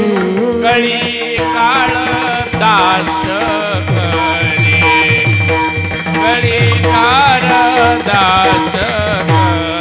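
Marathi devotional kirtan music: a melodic line with sliding, ornamented notes over steady held drone tones. A drum's low strokes repeat through it, each dropping in pitch.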